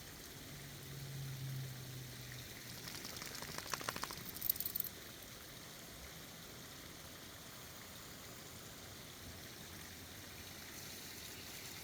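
Forest creek water running steadily. A short patch of rustling and clicks comes about three to five seconds in.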